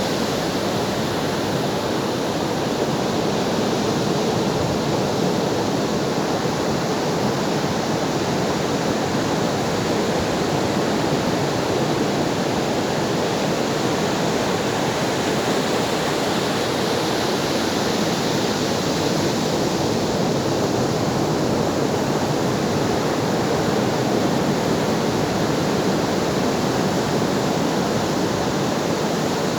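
Ocean surf: a continuous, steady wash of waves with little rise and fall.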